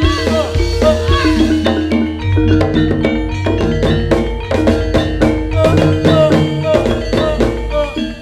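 Live jaranan gamelan music: struck tuned metal percussion and drums playing a driving rhythm. The strikes get denser about two seconds in.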